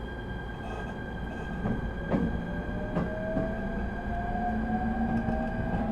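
ET127 series electric train pulling away: the Toyo IGBT-VVVF traction inverter's whine rises slowly in pitch from about two seconds in, over the rumble of the running gear. There is a steady high tone throughout and a few sharp clacks of wheels over rail joints.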